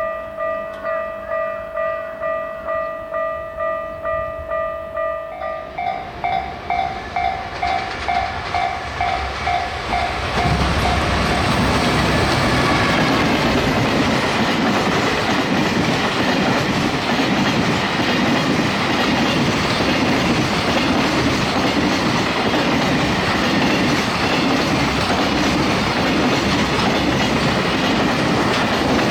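Japanese level-crossing warning bell ringing a little over two strokes a second, its tone stepping slightly higher about five seconds in. About ten seconds in, a train reaches the crossing and passes, its wheels clattering over the rail joints, loud and steady to the end and covering the bell.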